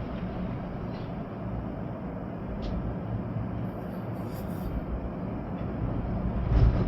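Storm wind gusting with rain: a steady low rumbling rush with a stronger gust near the end.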